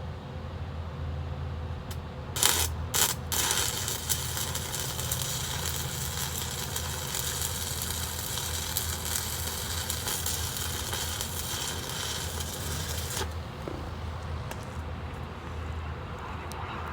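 Welding arc: a few short strikes about two seconds in, then a steady crackling weld run of about ten seconds that cuts off abruptly, over a steady low machine hum.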